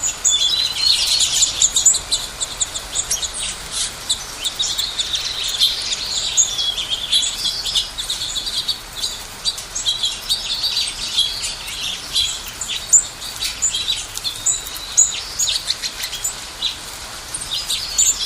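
Many small birds chirping and twittering together: a dense, continuous chorus of short, high calls and trills.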